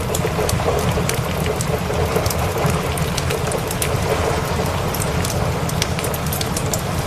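Steady rain mixed with many sharp, irregular crackles of a wood fire, over a continuous low rumble.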